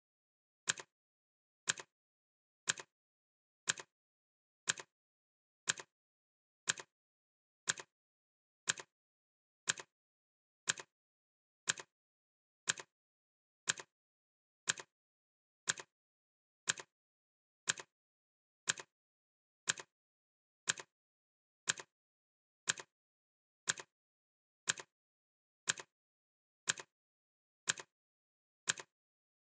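Clock ticking steadily about once a second, each tick a sharp click followed closely by a fainter one.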